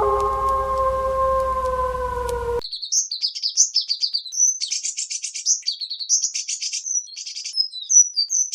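A canine howl held on one long, slightly falling note cuts off abruptly about two and a half seconds in. Then a small bird twitters in quick, high chirps.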